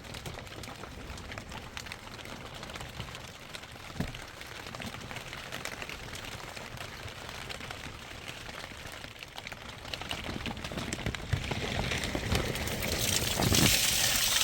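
Rainwater dripping and pattering on a soaked tent, with a single knock about four seconds in. Near the end it swells into a louder rush of water.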